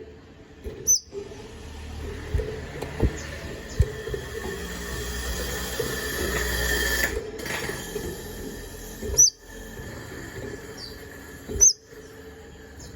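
A konin bird (kolibri ninja) giving three short, sharp high chirps: one about a second in and two near the end. Between them are a steady low hum, a few soft knocks and a hiss that swells and then cuts off sharply in the middle.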